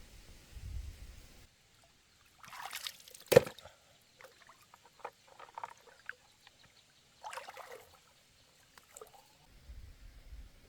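Shallow water splashing and sloshing in short bursts, with one sharp knock about three seconds in and a few small clicks between.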